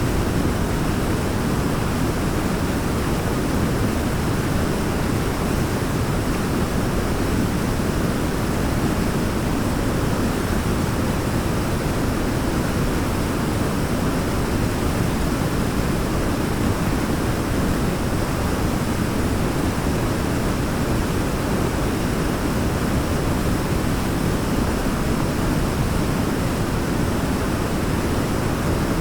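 Waterfall pouring steadily, a deep, even rush of falling water.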